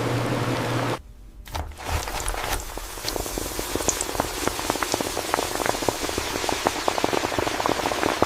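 A steady industrial machine hum cuts off about a second in, then potato slices frying in hot oil: a dense crackling sizzle with many sharp pops that builds and holds.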